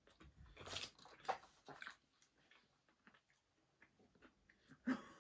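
Faint mouth noises of people chewing pieces of chocolate, in short irregular crackles over the first two seconds, then a brief voice sound near the end.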